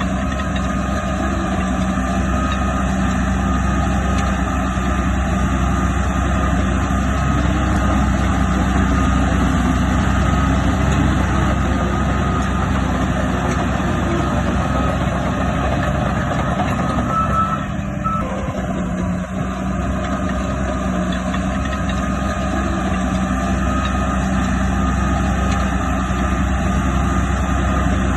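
Heavy diesel earthmoving machinery running steadily under work, with a faint high thin tone coming and going over the engine.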